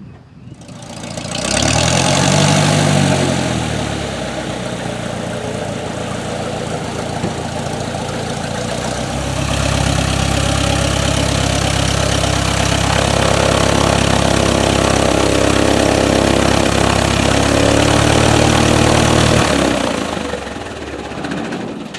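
Light single-engine propeller airplane's piston engine as the plane comes in: its pitch sweeps around two to three seconds in, then it runs steady and loud from about ten seconds in before dropping away near the end.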